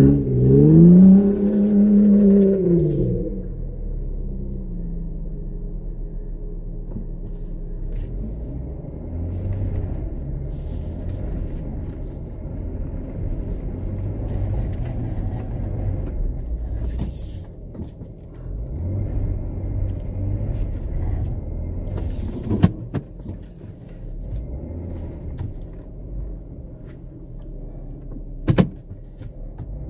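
Jeep Wrangler Unlimited's V6 engine revving up and down as it drives through thick mud, then settling into a steady low engine rumble. There are two sharp clicks near the end.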